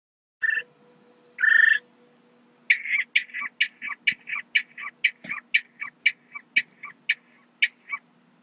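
A bird calling: two short harsh calls, then a long run of about twenty clipped harsh notes, quick at first and spacing out toward the end.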